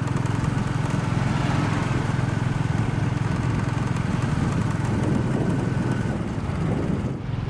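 Motorbike engine running at a steady cruising speed, with wind and road rush over it. The sound dips briefly near the end.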